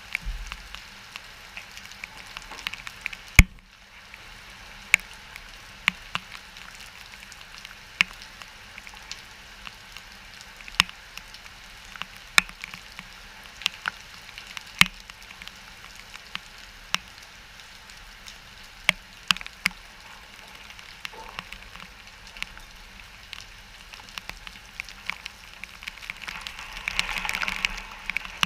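Steady rain from a hurricane's outer rain band, with irregular sharp drops or drips hitting a hard surface. The hiss swells briefly near the end.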